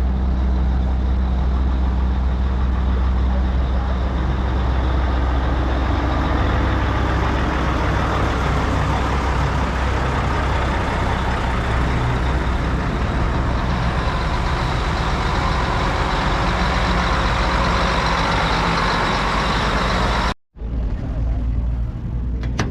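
Large diesel truck engine idling steadily, with a constant low hum. The sound cuts off abruptly near the end.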